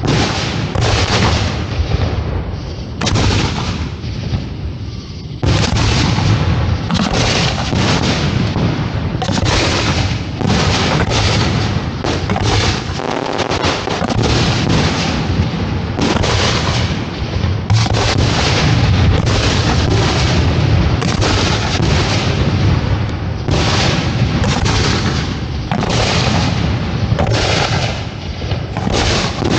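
Fireworks shells bursting in a dense, rapid barrage of overlapping booms and bangs that never lets up for more than a moment.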